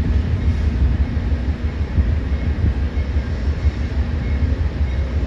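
Passenger train rumbling low and steady as it pulls in along the station tracks, with a faint high squeal from the wheels or brakes.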